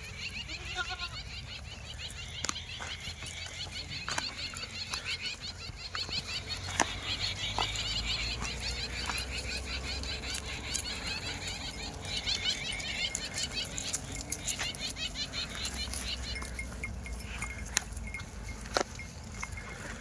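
A flock of sheep and goats milling about, with scattered knocks and clicks and a brief bleat near the start over a dense high chatter.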